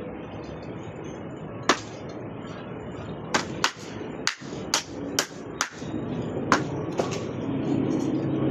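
A run of sharp, irregular knocks, about nine over several seconds, over a steady background noise. A low engine-like hum builds near the end.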